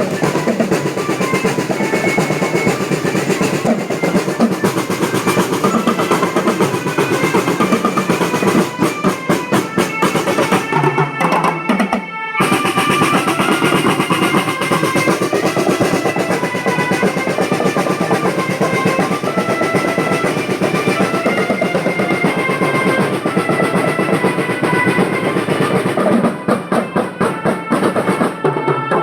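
School marching drum band playing: rapid snare drum rolls and bass drum beats under a melody of held notes. The band breaks off briefly about twelve seconds in, then starts again.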